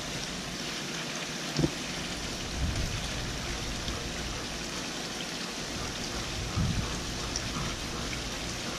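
Steady splash of water pouring into a swimming pool from small spillways in its raised stone wall, with a couple of soft low bumps.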